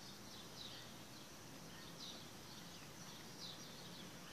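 Faint bird chirps: short, high, falling calls about every second and a half over a low steady hiss.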